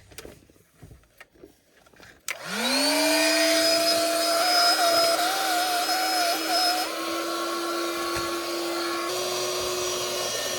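Small electric air pump inflating an air mattress: the motor spins up about two seconds in and then runs steadily, its pitch stepping up slightly a couple of times.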